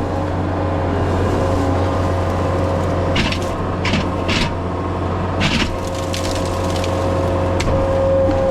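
Skid steer running steadily, with a hydraulic whine that fades and returns. A few short crunching, scraping bursts come from the bucket or grapple working material, about three to six seconds in.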